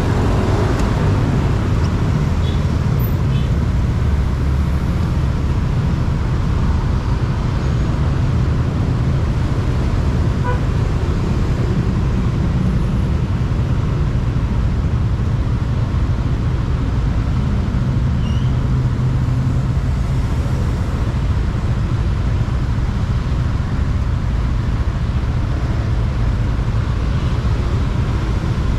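Motorbike riding along a road: steady engine and road noise with a heavy low rumble, even in level throughout.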